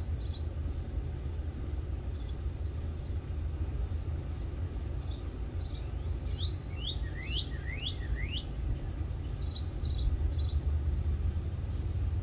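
A small songbird calling: a few short high chirps, then four quick rising notes in succession around the middle, then three more short chirps near the end. A steady low rumble runs underneath.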